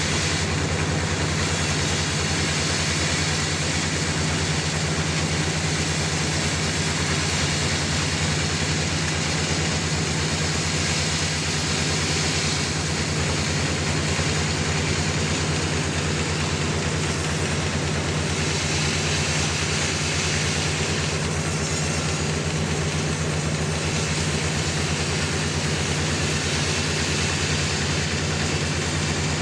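Sawmill running steadily with a low, even drone.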